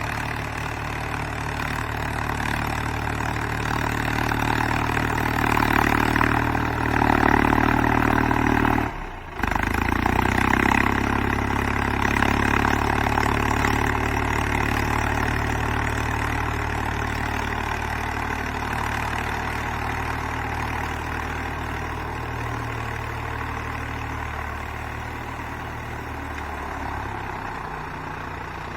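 Mahindra Yuvo 275 DI tractor's three-cylinder diesel engine running steadily. It grows louder in the middle, cuts out for a split second about nine seconds in, then fades a little toward the end.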